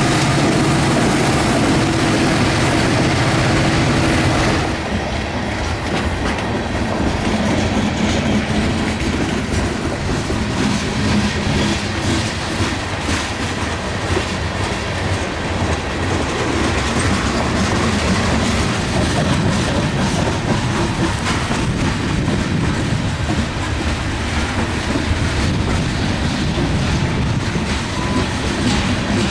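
Diesel freight locomotives working hard up a grade pass by with a steady engine drone for the first few seconds. Then the train's cars roll past with a continuous rumble and clickety-clack of wheels over the rail.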